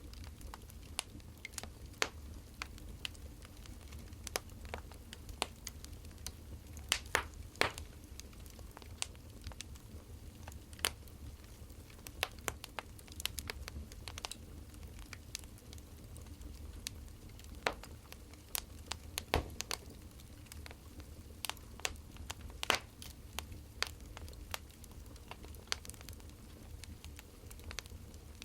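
Wood fire crackling: irregular snaps and pops over a low, steady rumble.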